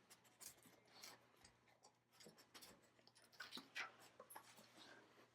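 Near silence: room tone with a few faint, scattered light clicks and ticks.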